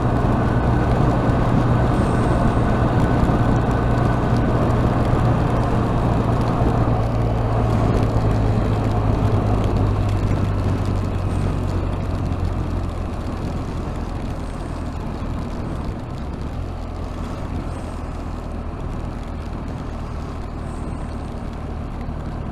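Riding noise on a BMW R 1250 RT: steady wind and road rush over the low drone of the boxer-twin engine. The noise grows gradually quieter and the engine note drops in the second half as the bike eases off.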